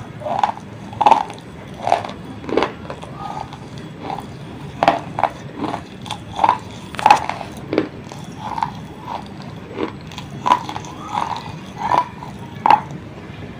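Chewing crunchy baked terracotta clay from a diya lamp: a string of short, sharp, irregular crunches, about one or two a second.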